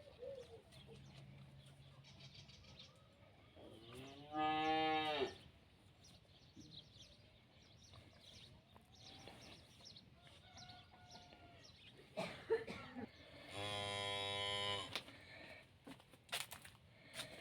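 Cattle mooing twice: a call of about a second starting about four seconds in, then a longer call about nine seconds later.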